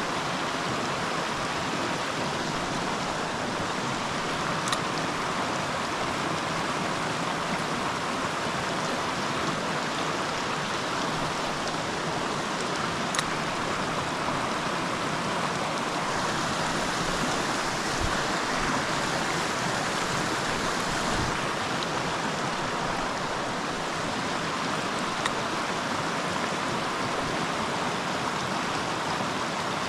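Creek water running steadily over stones, a constant even wash of sound, with a few faint clicks now and then.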